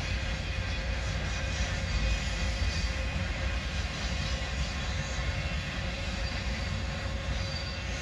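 Freight train of enclosed autorack cars rolling past, its steel wheels running on the rails in a steady, unbroken rumble.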